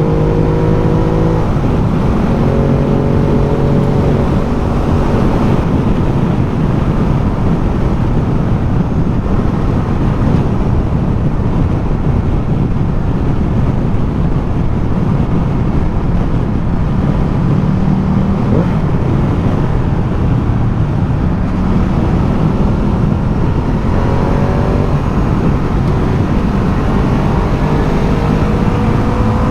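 Ducati Multistrada motorcycle engine running at road speed under heavy wind rush, heard from the rider's position. The engine note rises near the end as the bike accelerates.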